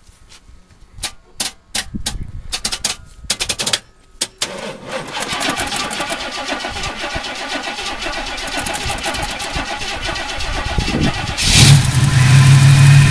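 Cold start of a 455 cubic-inch V8 on a weak battery: the starter stutters and clicks at first, then cranks steadily for several seconds, and the engine catches about eleven and a half seconds in and runs loudly.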